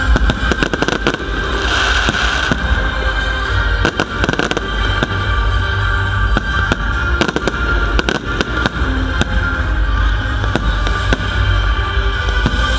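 Aerial fireworks going off in quick, irregular succession: many sharp bangs and crackles over a heavy low rumble. Music plays underneath.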